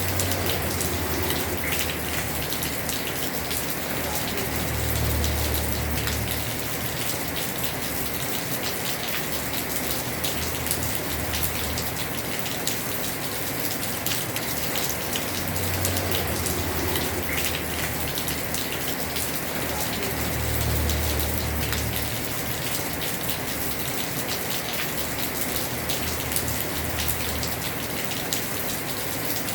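Heavy rain on a house roof: a dense, steady patter of drops, with a low rumble that swells and fades several times.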